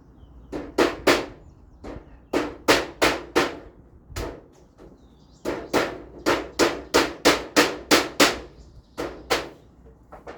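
Hammer driving nails to fix a galvanized iron roof sheet onto a traditional beehive: sharp metallic strikes in several runs of about three blows a second, the longest run of about a dozen blows in the middle.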